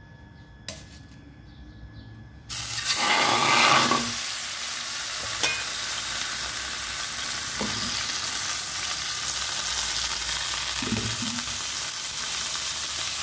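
Chicken breast laid into hot olive oil: a sudden loud sizzle starts about two and a half seconds in, then settles to a steady searing sizzle, with a few light knocks of the pan. Before it, a single click.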